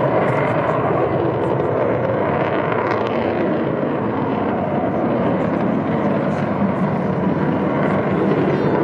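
Avro Vulcan XH558's four Rolls-Royce Olympus turbojets running as the bomber flies its display: a steady, dense rush of jet noise, a little louder at the start and again near the end.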